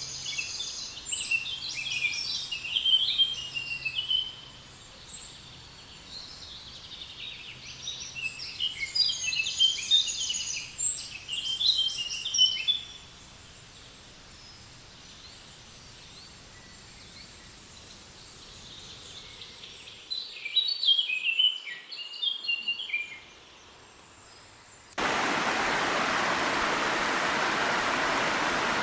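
Songbirds singing in bursts of quick chirps and trills over a faint background hiss. About 25 s in the sound cuts abruptly to the steady rush of a small waterfall.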